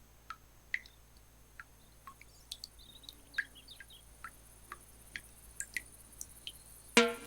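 Faint background with sparse, short, high chirp-like sounds scattered at uneven intervals, like a nature-ambience sound effect. Plucked music notes start just before the end.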